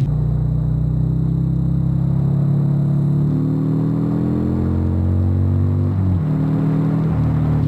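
Harley-Davidson Sportster 1200's V-twin engine running under way. Its pitch climbs steadily through the middle as the bike accelerates, then drops suddenly about six seconds in and settles.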